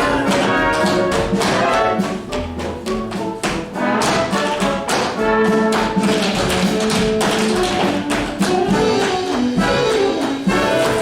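Pit orchestra with brass playing an upbeat show tune, with a fast run of tap-shoe clicks from a tap dance over it.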